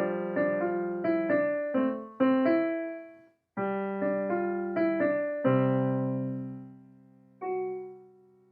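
Piano-type keyboard playing a melody of struck notes over held bass notes, with a brief break about three and a half seconds in. A held chord then dies away, and a single last note sounds and fades near the end, closing the piece.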